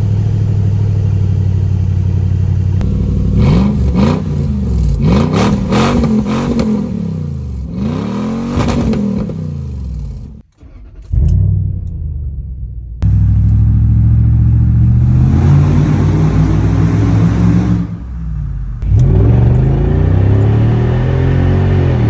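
2005 Lexus GX470's 2UZ-FE 4.7-litre V8 running straight-piped, its muffler and tailpipe rotted off, loud at idle and blipped again and again, the pitch climbing and falling with each rev. The sound breaks off suddenly about halfway through and picks up again in a few short segments.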